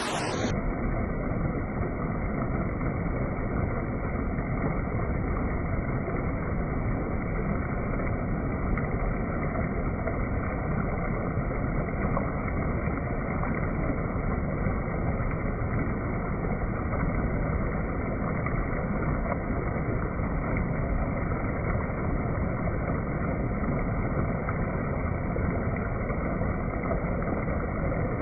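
Steady rushing of flowing water, an even unbroken noise with no distinct events.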